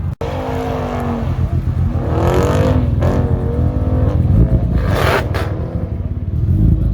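Car engine revving, its pitch rising and falling a few times over a steady low exhaust rumble.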